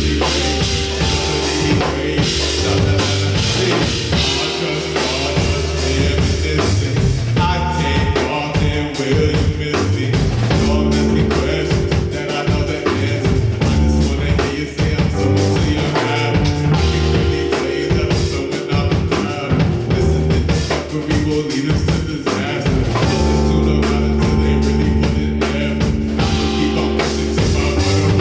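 Live band playing an instrumental passage: drum kit keeping a steady beat over bass and guitar.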